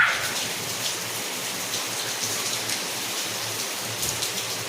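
Steady rain falling, an even hiss of drops with faint scattered patter on surfaces.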